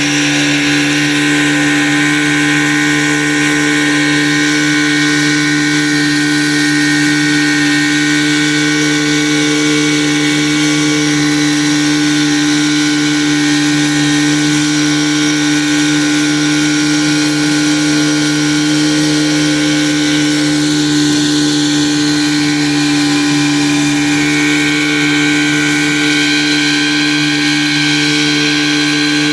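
Motorboat engine running steadily at one constant speed, a continuous drone that holds the same pitch throughout.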